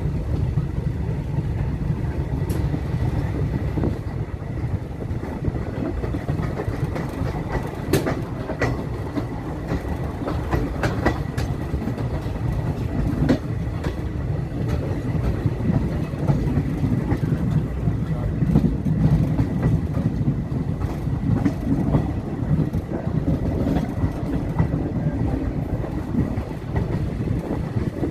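Passenger train moving along the track: a steady rumble from the wheels and coaches, with a few sharp clicks of the wheels over rail joints.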